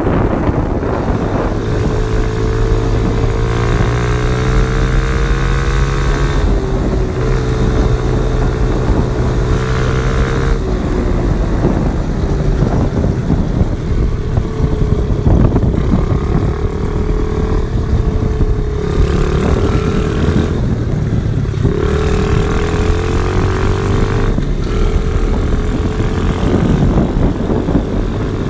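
Orion pit bike's small single-cylinder engine running. Its pitch rises and falls several times as the throttle is worked, with steady stretches in between.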